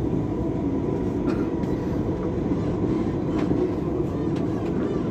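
Dubai Metro train running between stations, heard from inside the carriage: a steady rumble with a faint constant whine and a few light clicks.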